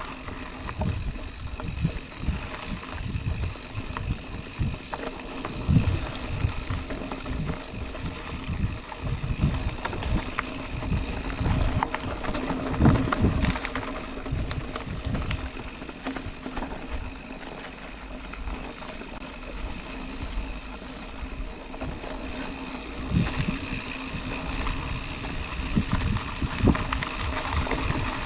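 Mountain bike moving along a dirt trail, rattling over rough ground with irregular low thumps.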